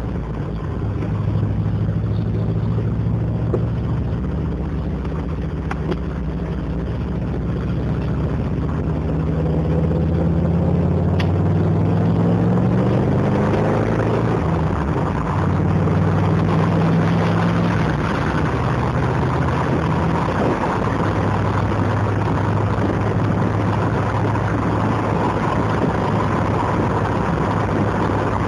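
TVR Wedge's Rover V8 engine burbling under way, heard from inside the car. About a third of the way in, the revs climb for several seconds, then drop back and settle into a steady cruise.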